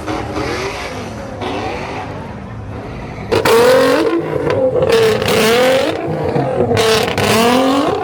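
Car engine revved hard over and over, its pitch rising and falling with each blip; it jumps sharply louder about three seconds in.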